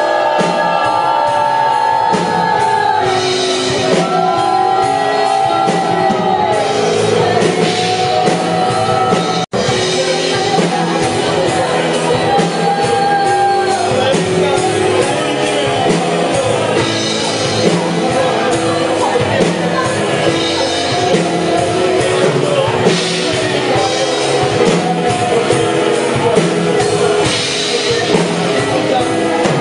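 Live worship band music with voices singing and calling out, echoing in a large hall. The sound cuts out for an instant about a third of the way in.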